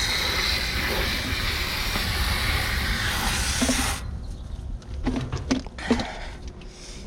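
Garden-hose water spray hissing against an air conditioner's outdoor condenser coil. The spray cuts off suddenly about four seconds in, followed by a few light knocks and clicks.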